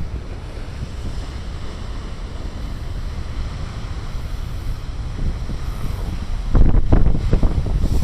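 Big ocean surf breaking on a rocky shore, with wind rumbling on the microphone; about six and a half seconds in, a heavier burst of low wind buffeting becomes the loudest sound.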